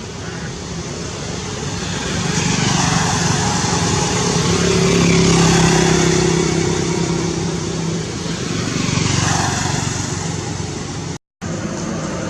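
Engine of a motor vehicle passing, swelling and then fading, with its pitch dropping near the end of the pass. The sound cuts out completely for a moment near the end.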